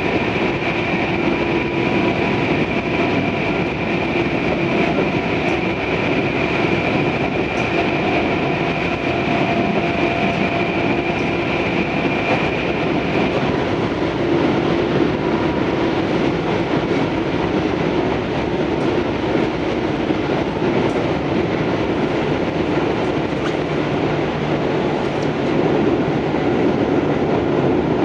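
Running noise of a Tobu 634-series electric train heard from inside the car while under way: a steady rumble of wheels on rail. A thin high tone sounds over it and stops about halfway through.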